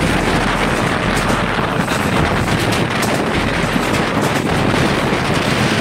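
Steady rush of wind on the microphone over a moving passenger train's running noise.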